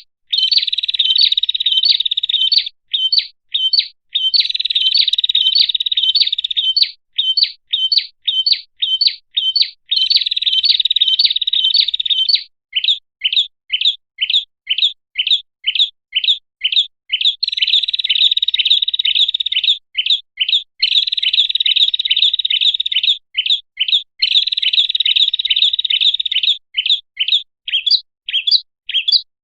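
Prinia (prenjak) calls played as a bird-trapping lure. Rapid sharp high chips come about two to three a second, alternating with dense buzzing trills a few seconds long.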